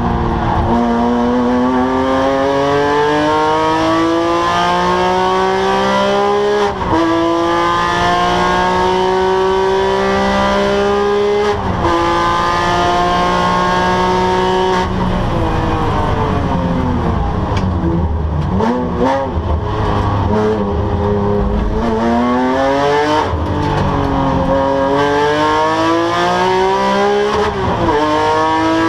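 Porsche 997 GT3's flat-six engine under full throttle through the gears, its pitch climbing and dropping at upshifts about 7 and 12 seconds in. From about 15 seconds in the revs fall under braking, with quick blips on the downshifts, then the engine pulls up through the revs again near the end.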